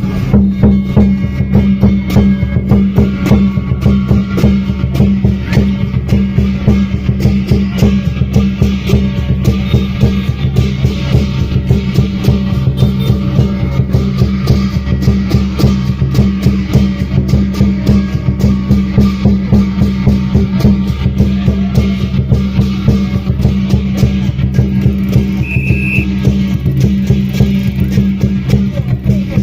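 Lion dance percussion: drum and cymbals beating fast and continuously, very loud.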